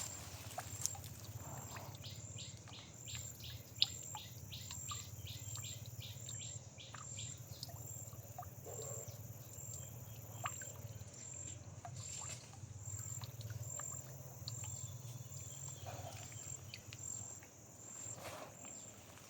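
Insect chirping at a high pitch in a steady pulse, about one to two chirps a second. A quick run of clicks comes in for a few seconds early on, and a low steady rumble lies underneath.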